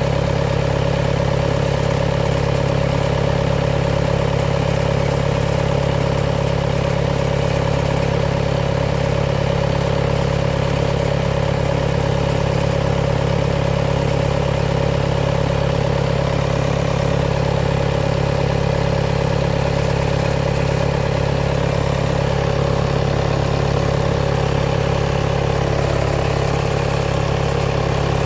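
2018 Volkswagen Tiguan's 2.0 TDI four-cylinder turbodiesel running steadily at idle after a cold start, with a faint high hiss that comes and goes several times: the extraneous noise the owner hears on a cold engine.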